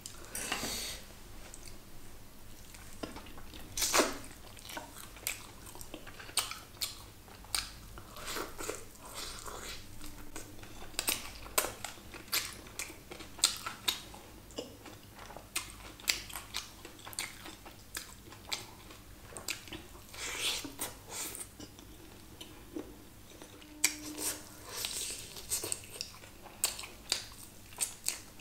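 Close-up chewing and biting of Schezwan chicken lollipops (sauce-coated fried chicken), with crunches and irregular sharp mouth clicks and smacks. The loudest bite comes about four seconds in.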